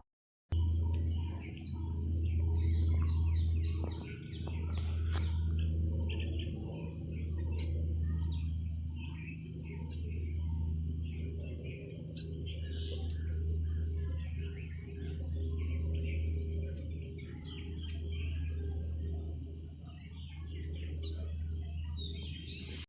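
A flock of scaly-breasted munias giving many short, high chirps, over a steady high insect-like drone and a low rumble that swells and fades every couple of seconds.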